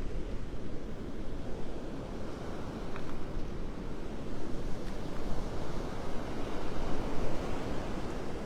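Gulf surf washing on the beach with wind buffeting the microphone: a continuous rushing noise that swells and eases.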